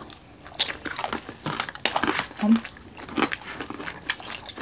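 Close-miked eating: crunchy bites and chewing in quick, irregular strokes, with a brief low hum about halfway through.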